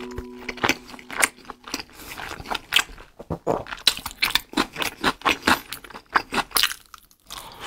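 Close-miked mouth sounds of a person biting and chewing a dumpling: quick wet smacks and clicks, several a second.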